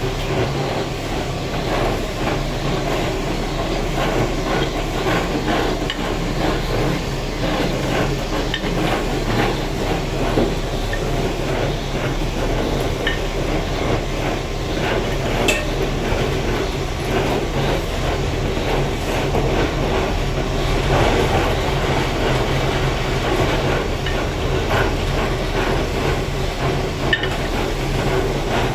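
A machine running steadily with a constant low hum and a continuous rapid rattling clatter.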